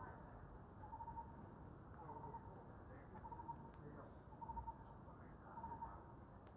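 A bird calling faintly: a short, pulsed note repeated evenly about once a second.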